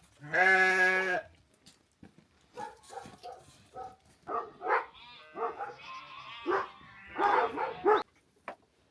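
Sheep bleating: one long, steady bleat right at the start, then a run of shorter bleats and calls that stops about a second before the end.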